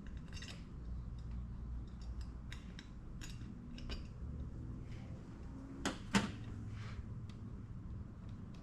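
Small metal carburetor parts and tools clinking and tapping on a workbench, with two louder knocks about six seconds in, over a low steady hum.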